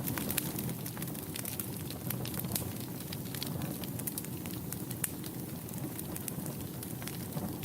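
Wood fire burning in a fireplace, crackling and popping with many sharp, irregular snaps over a steady low rumble of the flames.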